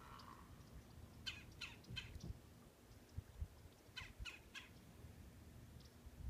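A bird calling faintly in two series of three short, falling calls, the first about a second and a half in and the second about four seconds in.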